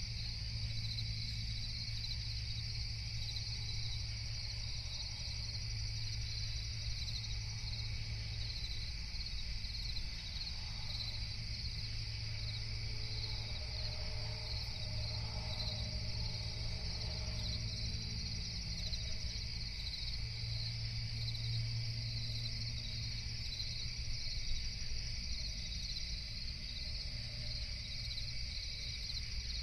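Night chorus of crickets chirping steadily and densely, over a steady low rumble.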